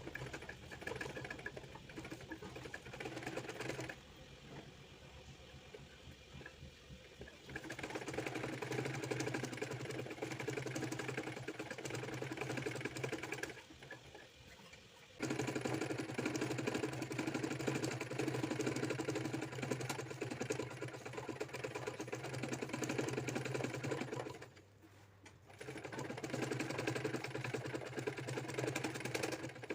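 Domestic sewing machine running a dense zigzag satin stitch, stitching in runs of several seconds and stopping three times, the longest stop a few seconds in.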